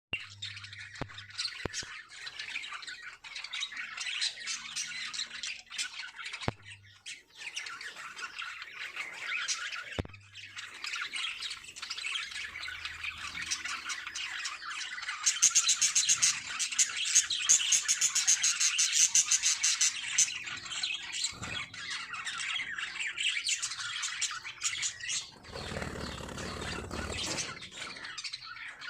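Lovebirds chattering and squawking in a dense run of rapid, shrill calls, growing louder about halfway through. A low rumble comes in briefly near the end.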